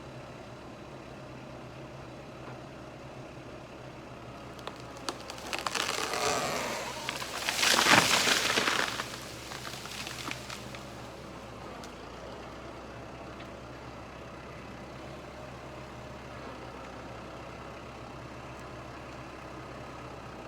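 Small Kubota tractor's diesel engine running steadily as it pushes over a rotten oak. About five seconds in the trunk starts cracking and splitting, building to a loud crash of the tree and its branches hitting the ground about eight seconds in, which dies away a few seconds later.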